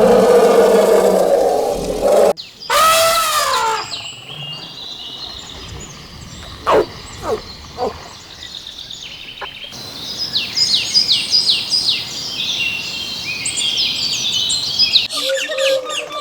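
A run of animal calls: a low, drawn-out call at the start and a short arching call about three seconds in, then sharp falling bird chirps, and busy high-pitched birdsong from about ten seconds in.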